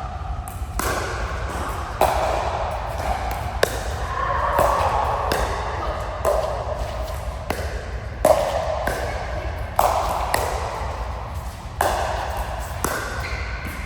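Rally in an echoing hall: sharp racket strikes on a ball or shuttle every second or two, with squeaks and background chatter between the hits.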